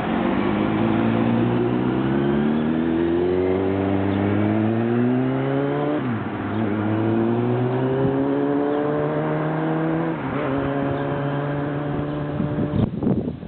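Volvo C30 T5's turbocharged five-cylinder engine pulling the car under acceleration: engine pitch climbs, drops sharply at about six seconds and again at about ten seconds as it shifts up, and holds steady between. A brief loud noise near the end, after which the engine is quieter.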